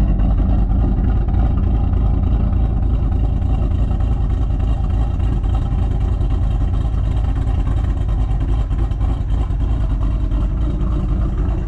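Cammed 2007 Shelby GT500's supercharged 5.4-litre V8 idling steadily, a deep, even exhaust rumble through stock mufflers.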